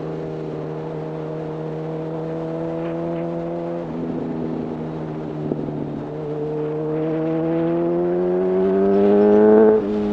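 Honda CB1000R's inline-four engine through a full-system Black Widow exhaust, heard from the rider's seat with wind: cruising at a near-steady note, then accelerating with the pitch climbing for several seconds. Just before the end the pitch falls sharply at an upshift.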